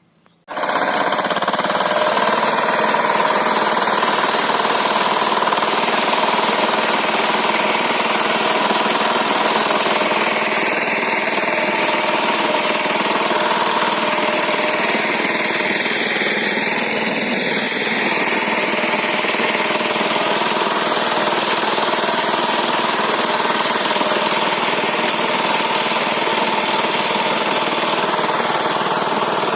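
Walk-behind tractor engine running steadily under load while its rotary tiller churns the soil; the sound cuts in abruptly about half a second in.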